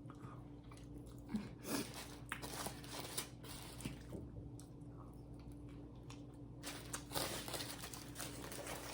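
A person biting and chewing food close to the microphone, with scattered crunches. A denser stretch of crackling starts about seven seconds in.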